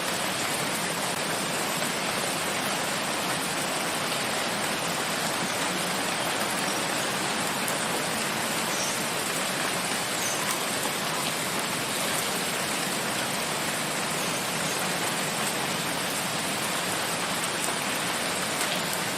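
Steady rain falling in a forest, an even, unbroken hiss of drops on leaves and ground.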